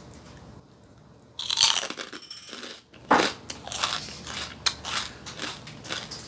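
Crunching bites and chewing of crispy deep-fried pork skin: a first loud crunch about a second and a half in, another just after three seconds, then quick repeated crunches as it is chewed.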